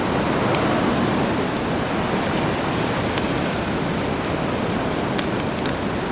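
Sea waves washing steadily onto a shore, with a few sharp crackles and pops from a campfire on top.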